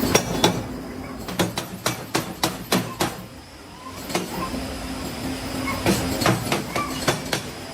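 Sharp metallic knocks and clanks of iron being struck or handled: a quick run of strikes about a second in, a lull around the middle, then more strikes later, over a steady low hum.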